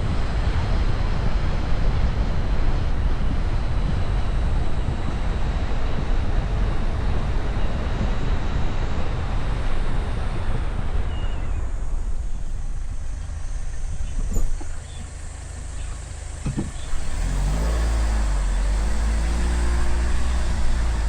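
Wind rushing over the microphone from a moving vehicle. It eases after about twelve seconds, and near the end a vehicle engine runs with a steady low hum.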